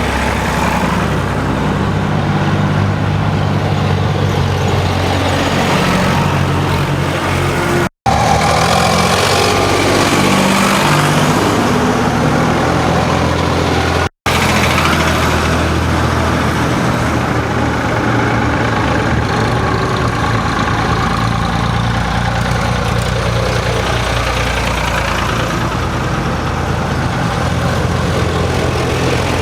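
Several farm tractors' diesel engines running close by, a steady low drone with engines idling; one engine's note falls away about eight seconds in. The sound drops out for an instant twice, around eight and fourteen seconds in.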